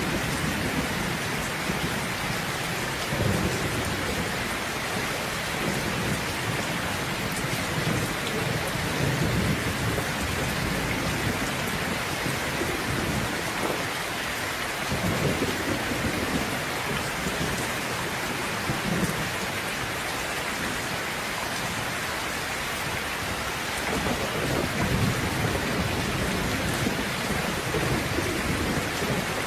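Steady heavy rain with low, rolling thunder rumbling on and off underneath.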